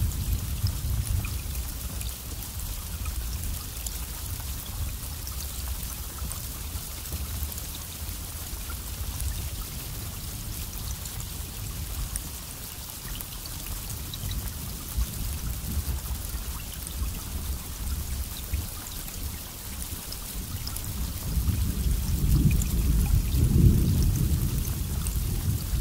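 Steady rain falling with low rolling thunder; the rumble is strong at the start, eases off, then builds again near the end.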